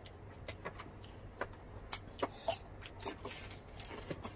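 Close-up eating sounds: crunching and chewing of crisp fried spring rolls (lumpiang Shanghai), heard as a run of irregular sharp crackles and mouth clicks.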